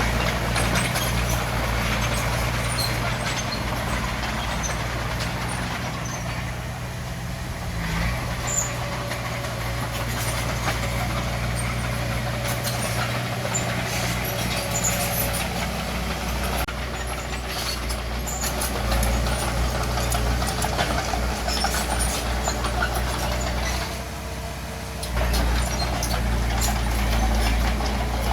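Bulldozer diesel engine running steadily, with scattered short metallic clicks and knocks over it; the engine eases off briefly twice.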